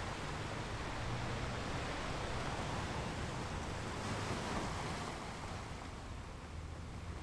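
Ocean waves washing onto a shore: a steady rush of surf that swells about four seconds in, then ebbs away.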